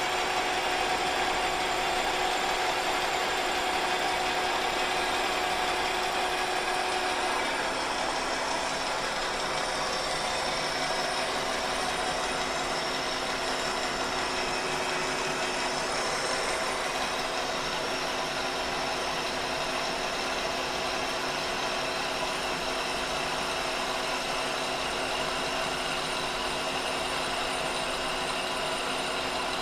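Kearney & Trecker 2HL horizontal mill running at 336 RPM, its face mill taking a 50-thousandths-deep cut across a cast iron straight edge casting under power feed: a steady machine sound with a constant hum of tones.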